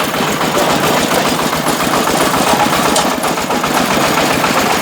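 Engine-driven brick-breaking machine running steadily, a continuous loud engine drone with fast, dense clattering.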